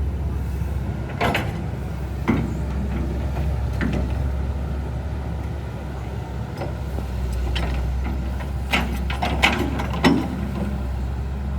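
A steady low engine-like rumble, with a few sharp knocks and clatters, the thickest cluster near the end.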